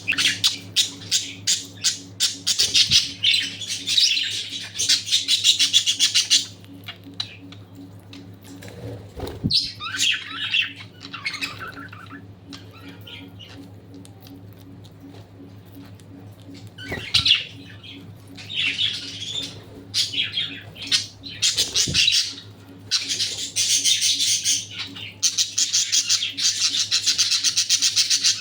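A group of budgerigars chattering and squawking in long bouts of rapid high-pitched calls, with a quieter spell in the middle. A steady low hum runs underneath.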